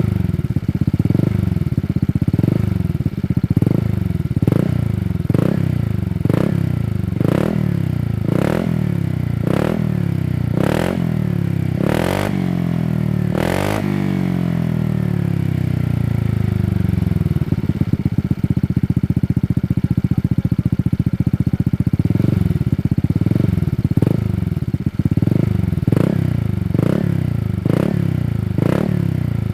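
Honda Vario 160 scooter's single-cylinder engine through a Shijiro Racing aftermarket exhaust, revved in short throttle blips about once a second, with two sharp cracks about halfway through. It then settles to a steady idle for several seconds before the quick blips start again.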